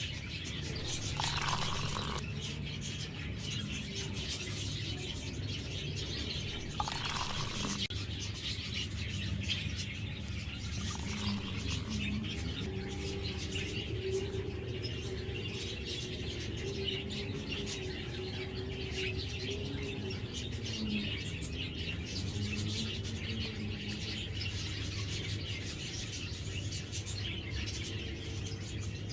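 Small birds chirping and twittering continuously in the background, with two short rustling or handling noises in the first third.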